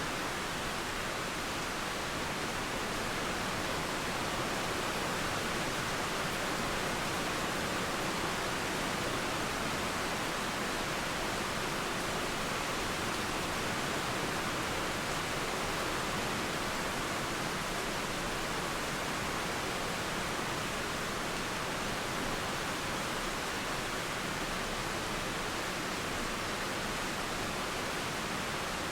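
Steady rain mixed with flowing river water, making an even, unbroken hiss.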